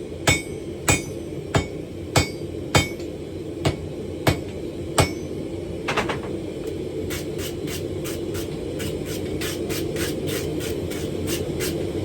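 Hand hammer blows on steel at an anvil, the steel being forged and folded. The blows are ringing, about one every two-thirds of a second, and about halfway through they change to quicker, lighter strikes of three or four a second. A steady low roar runs underneath.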